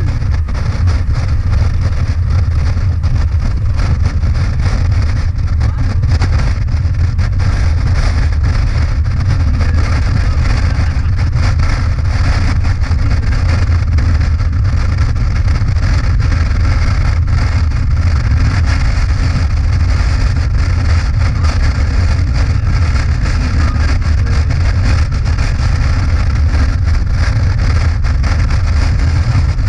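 Motorcycle riding at a steady cruising speed: a constant low engine drone mixed with wind rushing over the microphone.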